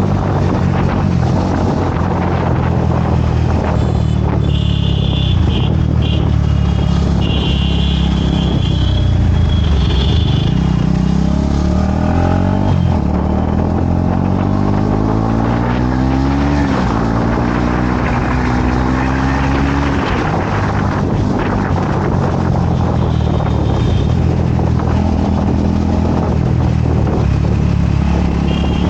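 Motorcycle engine and road noise while riding. About halfway through, the engine pitch rises and drops back several times as the bike accelerates up through the gears.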